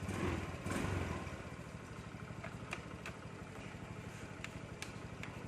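Motorbike engine idling with an even, rapid low pulse that swells briefly in the first second. A few sharp clicks sound over it.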